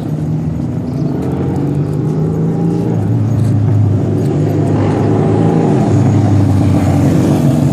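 Motor vehicle engine running close by: a loud, steady low hum whose pitch shifts slightly lower about three seconds in.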